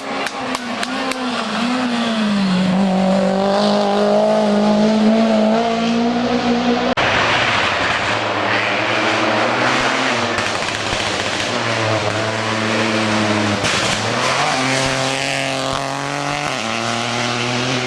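Rally car engines at hard throttle on a closed stage, rising and falling in pitch as they rev and shift through gears. The sound changes abruptly about seven seconds in to a noisier passage before another engine revs through its gears.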